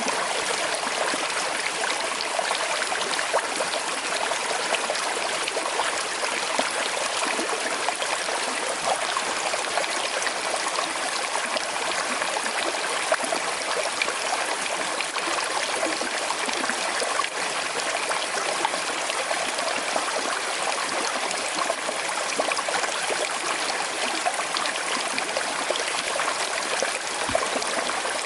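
Small river flowing, a steady rush of water with fine trickling and babbling over stones.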